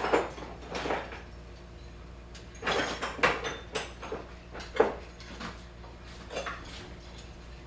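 Steel saw files being picked up and set down on a workbench: a string of separate metal clinks and knocks.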